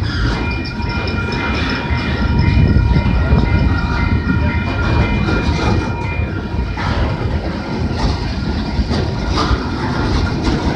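Canadian Pacific freight cars, covered hoppers and a loaded flatcar, rolling slowly past with a heavy steady rumble and the clickety-clack of wheels over rail joints. A steady high-pitched squeal rides over the rumble for the first six seconds or so, then stops.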